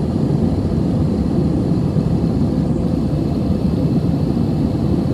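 Airbus A320 cabin noise: a steady low rumble of engines and airflow, with a faint steady hum.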